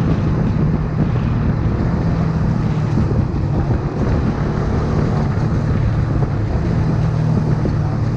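Honda CBX 250 Twister's single-cylinder four-stroke engine running steadily at idle, its exhaust giving an even low rumble.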